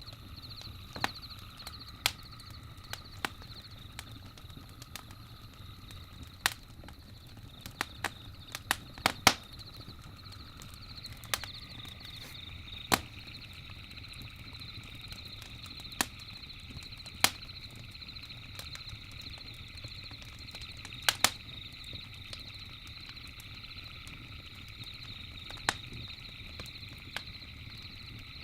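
Campfire crackling, with irregular sharp pops and snaps scattered through, a few loud pairs among them, over a low steady rumble of the burning fire. Beneath it runs a steady, high chirring of night insects.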